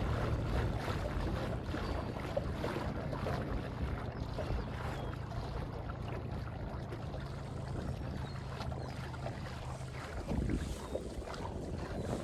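Fishing boat's outboard motor running with a steady low hum, with wind and water noise over it; the motor's hum stops about ten seconds in.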